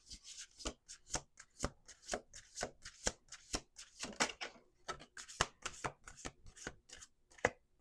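Hand-shuffling a deck of oracle cards: a quick run of soft card-against-card slaps and riffles, several a second, thinning out near the end.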